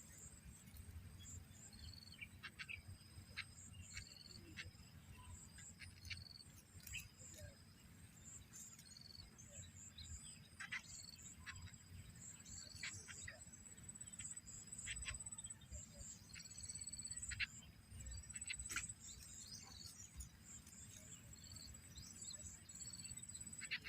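Faint outdoor ambience of insects trilling in a steady, high-pitched pulsing drone, with short repeated bird chirps and scattered ticks over a low rumble.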